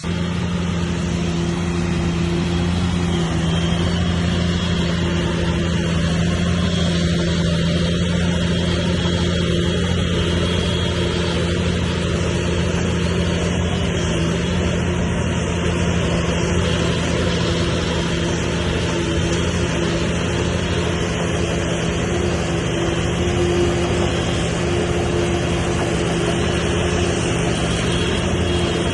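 Heavy diesel engine of an earthmoving machine running steadily at an even speed, with no revving.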